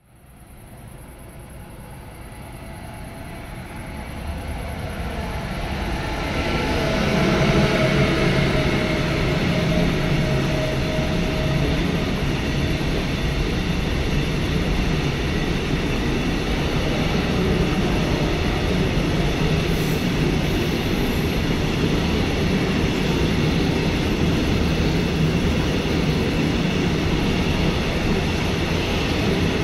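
A train approaching, growing louder over the first seven seconds or so, then passing close by with a steady rumble of wheels on rail.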